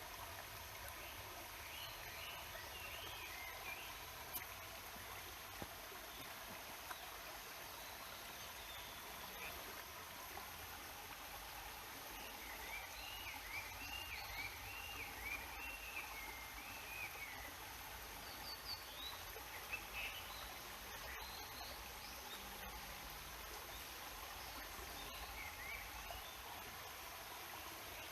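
Stream water running in a steady rush, with birds singing over it in short chirps and warbles. A run of quick repeated rising-and-falling notes comes in the middle.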